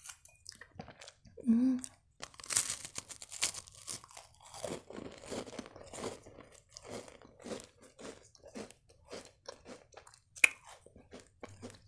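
Crunching and chewing of crisp sandwich cookies with a chocolate filling: a crisp bite about two and a half seconds in, then a run of crunchy chews, and another sharp bite about ten and a half seconds in.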